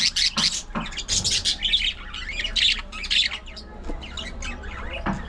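A colony of budgerigars chattering, with many short, high calls overlapping one another.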